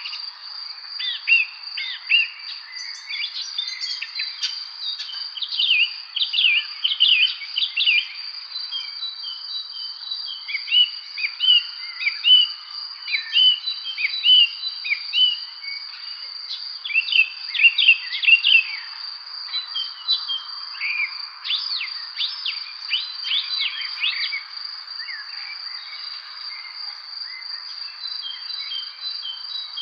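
Songbirds chirping and calling in an evening spring chorus, many short chirps and quick falling notes overlapping, thinning out near the end. Under them a steady, high-pitched insect drone, like crickets, runs without a break.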